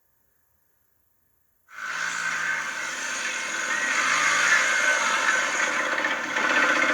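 Silence, then a sudden cut-in about two seconds in of a motorcycle engine running under a loud, steady hiss.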